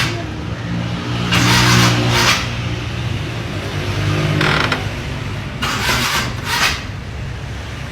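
Old car's engine running on a cold start, revved in short surges as the gas pedal is pumped, each surge rising and then dropping back to a rough idle.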